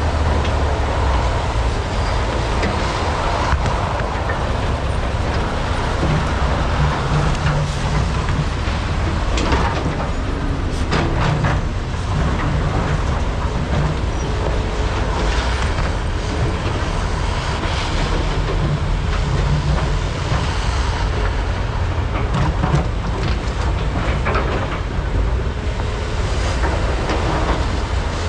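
Large hydraulic mining excavators' diesel engines running steadily under load during truck loading, with a cluster of knocks and rattles about ten seconds in.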